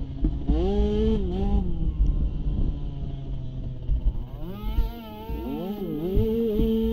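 Small youth ATV engines revving up and down in two spells, the second with two engines at different pitches crossing each other, over a low rumble of wind and terrain noise.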